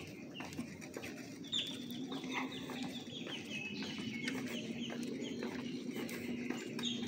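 A bird calling in rapid runs of short, high, downward-sliding notes, several a second, over a steady low hum.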